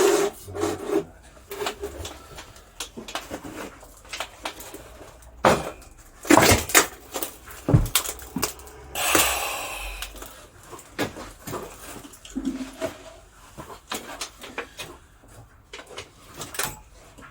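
Irregular knocks and metallic clanks of a cable drum and weight-bench bar being handled and set in place, with a longer scrape about nine seconds in.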